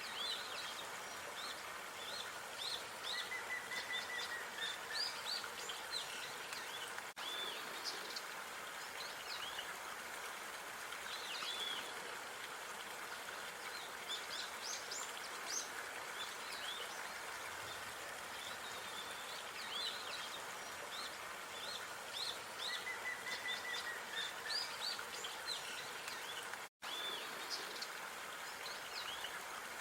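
Small songbirds chirping and twittering in short repeated calls, with an occasional brief trill, over a steady background hum of outdoor noise. Near the end the sound drops out for a moment.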